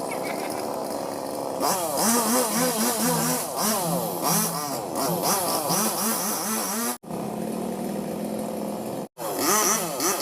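Two-stroke engine of a Robin Plus chainsaw running steadily, then revving up and down over and over from about a second and a half in. The sound cuts out for an instant twice near the end.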